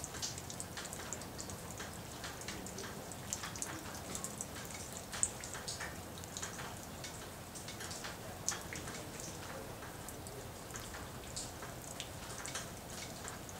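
Rain falling, with scattered raindrops ticking irregularly on a nearby surface over a steady hiss.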